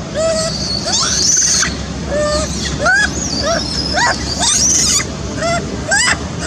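Baby monkey crying: a rapid series of short, upward-curving cries, with higher squeals mixed in.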